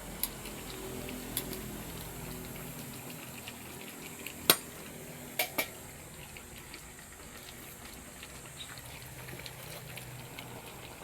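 Pot of pinakbet simmering in coconut milk, a steady bubbling, with a few sharp clicks, the loudest about four and a half seconds in and two close together about a second later.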